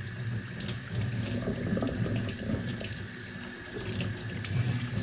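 Tap water running into a kitchen sink while dishes are washed by hand, with light clinks of the dishes now and then.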